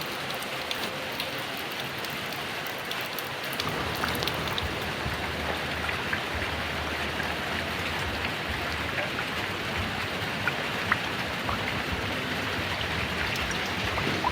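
Heavy rain falling steadily, with individual drops ticking sharply over the hiss. About three and a half seconds in, a low rumble joins and the rain grows a little louder.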